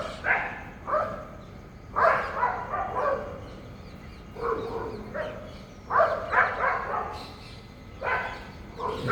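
Animal calls: short, loud cries in clusters, coming about every one to two seconds.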